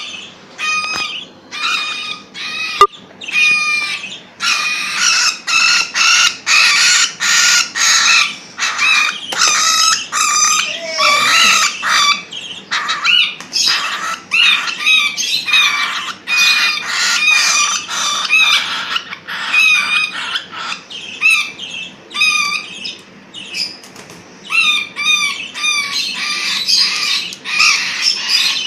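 Pet cockatiels and budgerigars calling loudly and repeatedly, a dense run of short, harsh, pitched calls one after another. A single sharp click about three seconds in.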